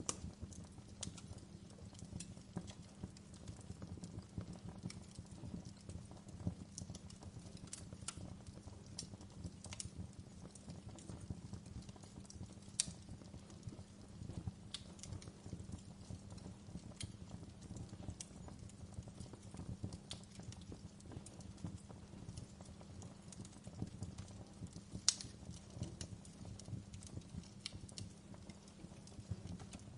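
Fireplace fire crackling: irregular sharp pops and snaps over a low steady rumble, with two louder pops around the middle and near the end.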